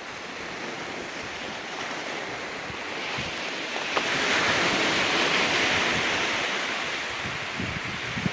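Ocean waves washing in against large beach rocks, one wave swelling to its loudest about four to six seconds in and then easing off, with wind buffeting the microphone.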